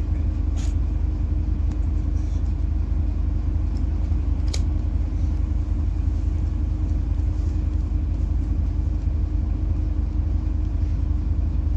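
PAZ-4234-04 bus heard from inside the cabin while driving: a steady low rumble of the diesel engine and running gear. Two short sharp clicks cut through, about half a second and four and a half seconds in.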